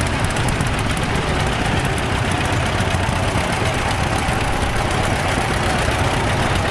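Vintage tractor engines running, a steady low engine note over broad background noise.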